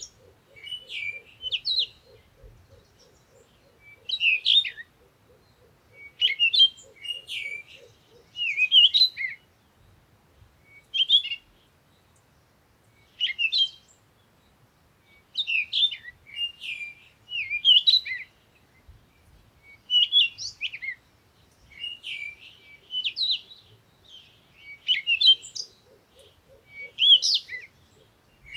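A songbird singing short, warbling phrases over and over, one about every two seconds. A faint, fast, low pulsing call runs under the first several seconds and comes back near the end.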